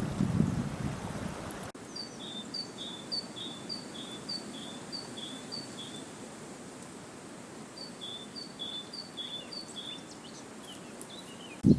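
A small songbird singing a repeated high two-note chirp, about two to three a second, in two runs separated by a short pause. For the first second and a half, low rumbling wind noise sits under it; this stops abruptly.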